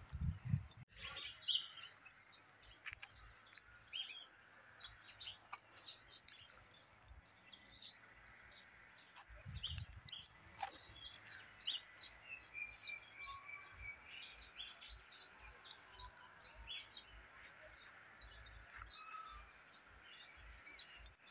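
Wild birds chirping: many short, high calls from several birds, faint, with a few dull low thumps near the start and about ten seconds in.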